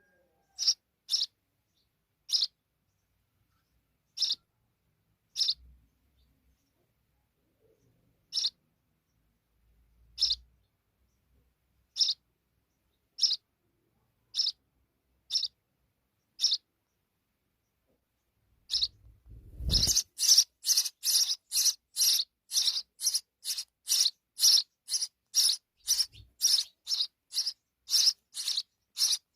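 Sparrow chirping. At first there are single short chirps every second or two; about two-thirds of the way through they turn into a rapid, louder run of chirps, about three a second. Just as the run starts there is a brief low thump.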